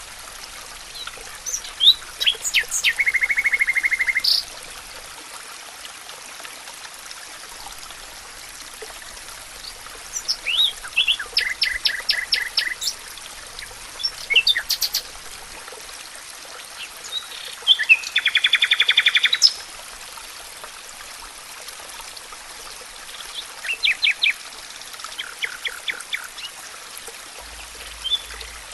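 Songbird singing short phrases every few seconds, several of them ending in a rapid trill, over the steady rush of a small stream.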